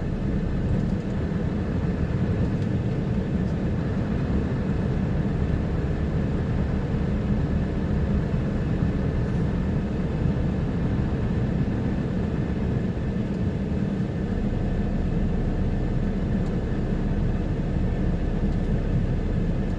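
Truck engine running steadily, heard from inside the cab as the plow truck reverses.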